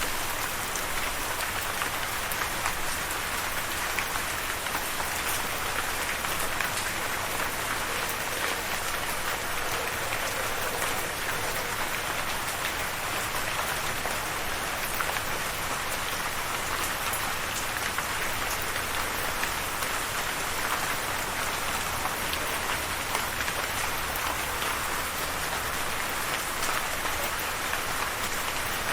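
Steady rain falling on a surface, a dense even patter of many small drop ticks.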